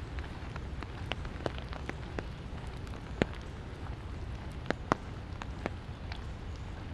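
Light rain falling steadily, with scattered sharp raindrop taps landing at irregular moments.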